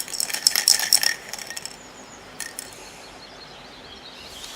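Rapid, dense rattling clatter for about a second, then a few isolated light clicks.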